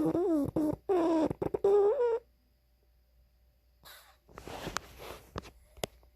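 A pug barking in its sleep: a string of short yelping barks whose pitch wavers up and down for about two seconds, then a long noisy breath about four seconds in.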